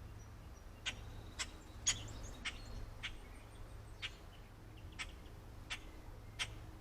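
Short, sharp bird chip calls, about nine of them at uneven intervals, over a steady low hum.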